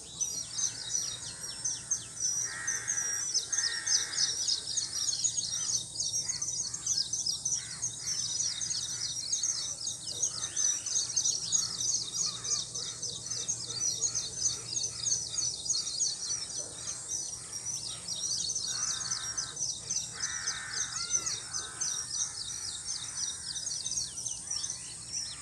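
Dense chorus of birds chirping rapidly and continuously over a steady high hiss, with a few louder, lower calls about 3 seconds in and again near 20 seconds in.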